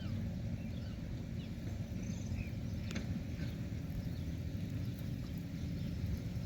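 Wind rumbling on the microphone, with faint bird chirps in the background and a single sharp click about three seconds in.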